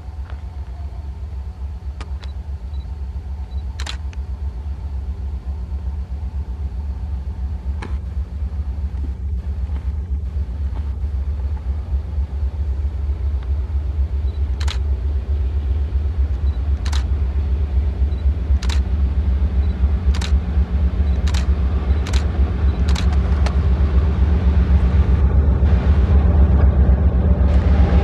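An approaching train: a low rumble growing steadily louder, with sharp clicks from about halfway in that come closer and closer together.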